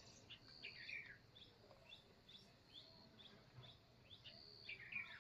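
Wild birds chirping and calling in a morning chorus: a run of short, high chirps, with a louder falling call about a second in and again near the end.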